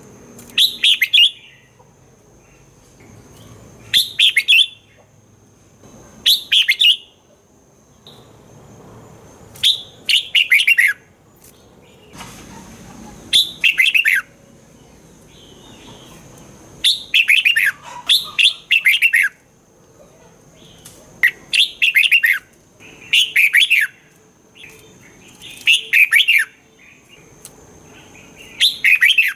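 Red-whiskered bulbul singing: short, bright, warbled phrases repeated every two to three seconds.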